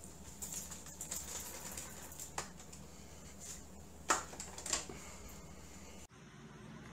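Scattered light clicks and knocks of things being handled, the sharpest about four seconds in, with no motor running; the background hum cuts off abruptly about six seconds in.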